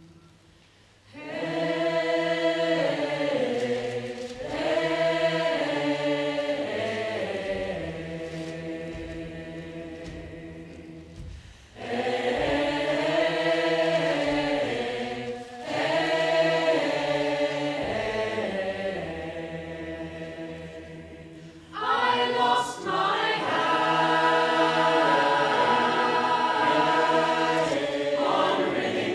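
Choir singing wordless or chant-like sustained chords in three long phrases. Each phrase enters strongly, with a second one about eleven seconds after the first and a third about ten seconds later, and each fades away slowly.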